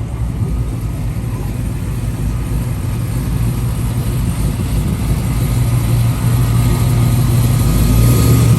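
A motor vehicle's engine running steadily with a low hum, growing a little louder toward the end.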